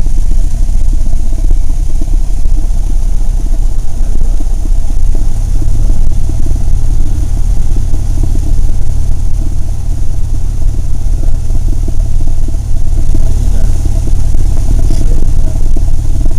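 A Cessna 172's air-cooled four-cylinder piston engine and propeller droning steadily, heard inside the cabin as a loud, deep rumble. The low note shifts slightly about five seconds in.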